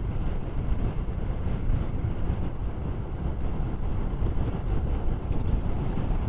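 Steady wind rumble buffeting the microphone on a moving motorcycle, with the bike's running underneath it.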